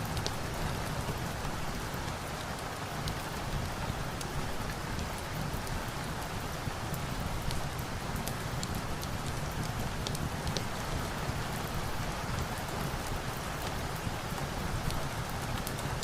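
Steady rain, a dense even patter, mixed with a crackling log fire whose sharp little pops are scattered throughout.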